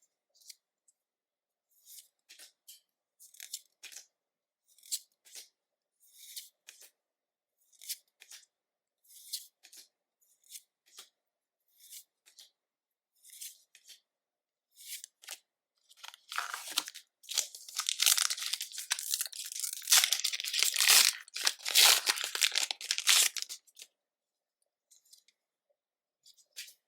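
Short soft rustles about once a second, then about seven seconds of loud crinkling and tearing as Pokémon card booster pack packaging is torn open.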